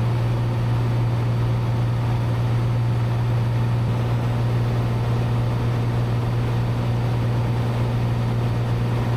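Steady cabin drone of a Cessna 182's six-cylinder piston engine and propeller in cruise flight, a constant low hum with no change in pitch.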